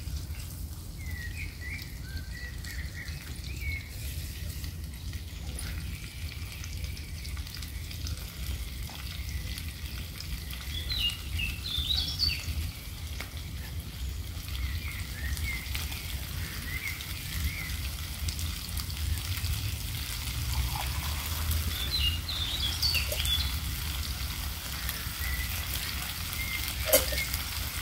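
Songbirds chirping in short clusters every few seconds over a steady crackling hiss and a low rumble.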